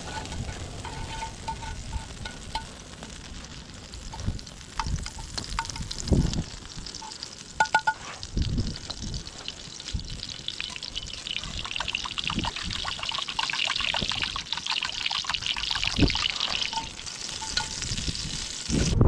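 Food frying in a pan over a campfire: a steady sizzle with fine crackling pops, swelling for a few seconds after the middle. A few sharp knocks come in partway through.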